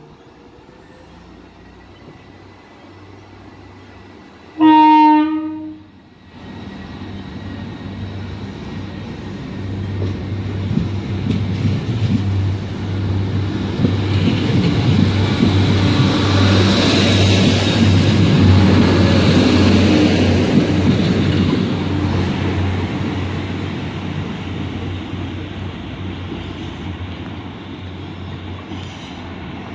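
Class 175 diesel multiple unit sounds its horn once, a loud blast of about a second just after four seconds in. Its engines and wheels then grow louder as it runs past, peaking midway and fading as it moves off, with a thin high whine over the rumble.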